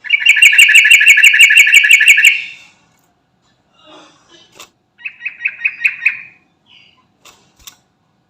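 Sooty-headed bulbul (trucukan) calling in a fast run of repeated notes, about seven a second, for some two seconds. A shorter run of the same notes follows about five seconds in.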